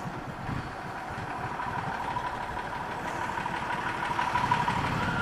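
Motorcycle engine running while riding, with a steady whine over the engine note and road and wind noise; it grows a little louder toward the end.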